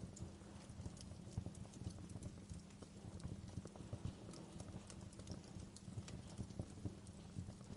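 Wood fire burning in a fireplace: irregular crackles and small pops over a low, steady rumble of the flames.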